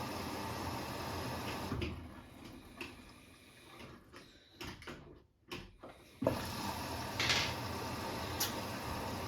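Steady hiss from a Hotpoint WMFUG942 washing machine running its Autoclean cycle. The hiss drops away for a few seconds with scattered clicks, then comes back with a sharp knock about six seconds in, followed by a brief louder hiss.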